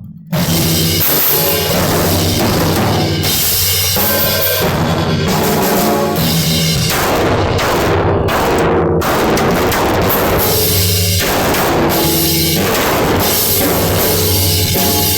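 Drum kit played loud in a solo: a dense, continuous run of drum hits with cymbals ringing over them. It resumes after a brief break at the very start.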